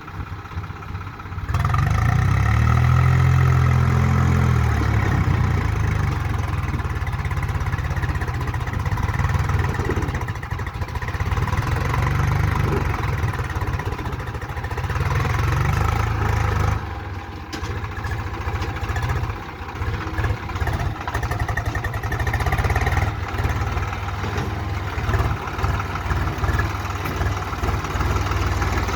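Swaraj 735 FE tractor's three-cylinder diesel engine running, getting much louder about a second and a half in, easing off somewhat about halfway through, then rising and falling unevenly.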